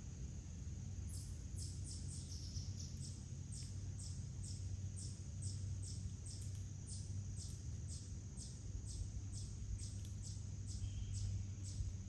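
A bird singing a long run of short, high, down-slurred notes, about two a second, starting about a second in, over a steady low rumble.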